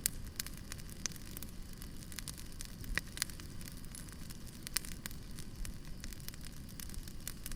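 Wood fire crackling: irregular sharp pops and snaps over a steady low rumble, the loudest pop about three seconds in.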